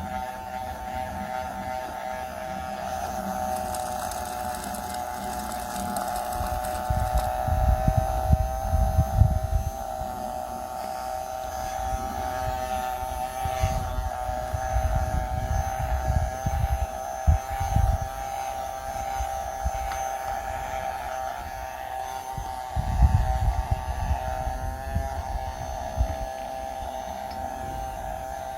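A small electric motor running with a steady high hum, with irregular low bumps and rumbles of handling now and then.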